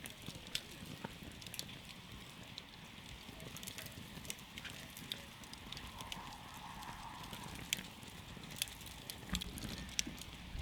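Wood campfire burning: a steady low rush of flame with irregular sharp crackles and pops, a dozen or so louder ones scattered through.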